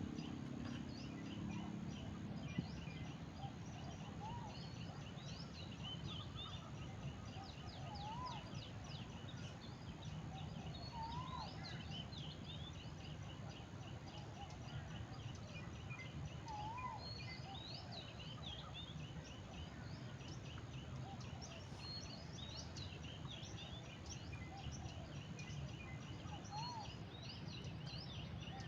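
Outdoor morning ambience of birds calling: one bird repeats a short rising-and-falling call about every three seconds over a steady chirring and scattered higher chirps, with a low steady background noise.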